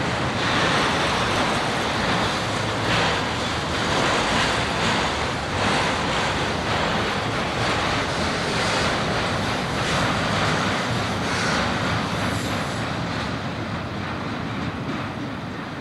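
Freight train cars rolling past on the rails, a steady rush of wheel and rail noise that eases off a little near the end, with wind buffeting the microphone.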